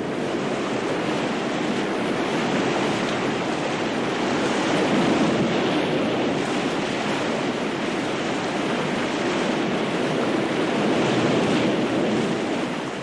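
Ocean surf: a steady rushing wash of waves that swells a little about five seconds in and again near the end.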